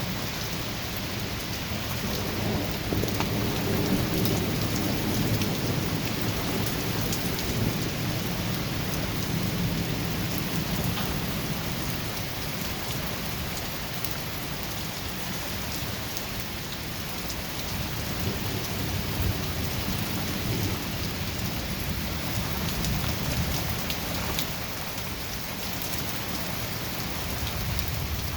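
Steady rain falling during a thunderstorm, with fine patter of drops. Low thunder rolls through, swelling in the first third and again a little past the middle before fading.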